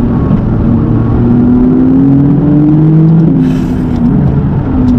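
McLaren 570GT's twin-turbocharged V8 pulling under acceleration, its pitch rising steadily, then falling back about three seconds in and holding steadier.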